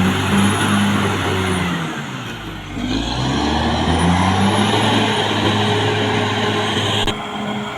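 Caterpillar D6R XL bulldozer's diesel engine working under load. The engine note sags about two seconds in, then picks back up, and the sound changes suddenly near the end.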